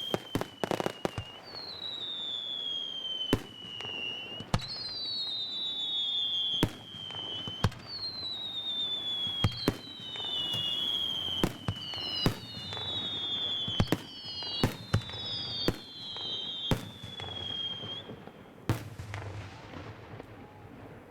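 Fireworks going off in a rapid series of sharp bangs, with whistling shells: one whistle after another, each falling in pitch over about two seconds and often overlapping. The whistles stop near the end, leaving scattered bangs and a low rumble.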